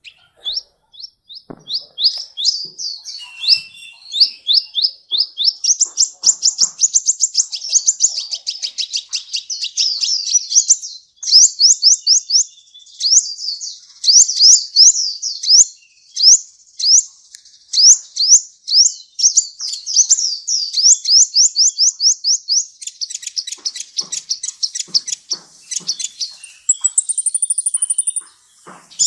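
Sunbird song: long, rapid runs of high, sharp chirping notes, several a second, broken by a few short pauses, with a thin high trill near the end.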